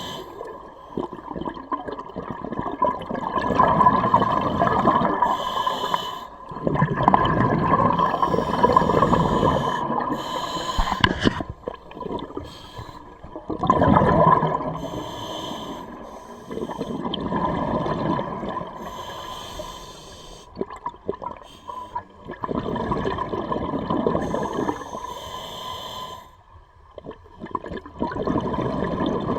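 Scuba diver breathing through a regulator underwater: a hissing inhale, then a gurgling rush of exhaled bubbles, repeating about every four to six seconds.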